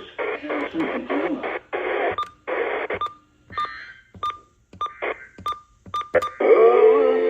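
Audio from a radio receiver, chopped into short snatches and broken by about ten sharp clicks, each with a brief high beep. Loud, steady audio comes back near the end.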